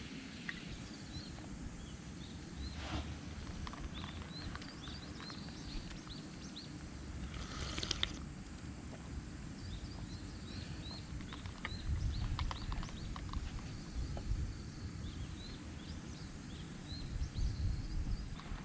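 Small birds chirping, many short repeated calls, over a steady low outdoor rumble, with a few sharp clicks in between.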